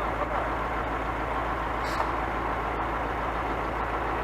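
Scania truck's diesel engine running steadily, with a faint click about two seconds in.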